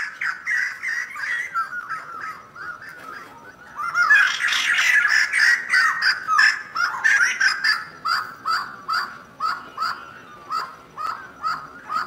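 Birds calling: loud, short calls repeated about twice a second, swelling into a dense chorus of overlapping calls from about four to seven seconds in.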